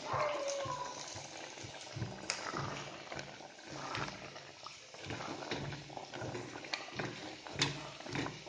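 Onion and green chillies sautéing in a little oil in a kadai: a soft, steady sizzle with a few sharp clicks of the spatula against the pan. A short falling squeak comes at the very start.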